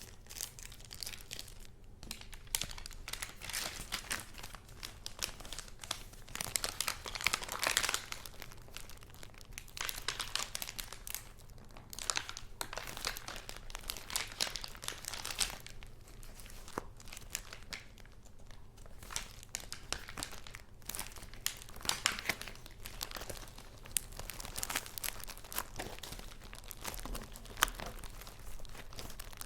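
Paper being handled and crinkled: dense, irregular rustling and crackling that swells about 7 to 8 seconds in.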